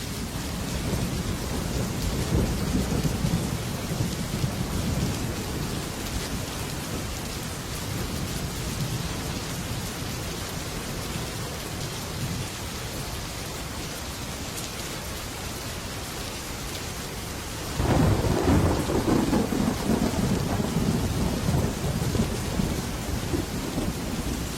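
Heavy rain drumming steadily on a metal roof with thunder rumbling low. About 18 seconds in a loud thunderclap breaks in and rolls on.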